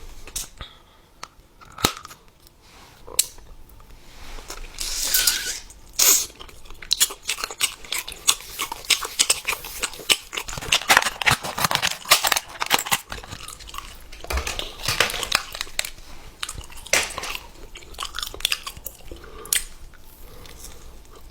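Loud, crunchy chewing of crisp food, with sharp bites and crackling crunches that come thickest in the middle.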